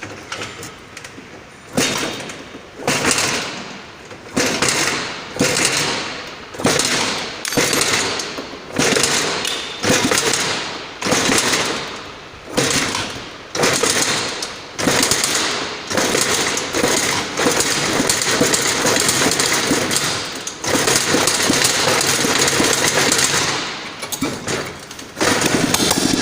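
Freshly rebuilt Honda 150 cc single petrol engine running, revved in short sharp blips about once every second and a half that each fall back toward idle. It is then held at higher revs for several seconds, dropped briefly, and revved up again near the end.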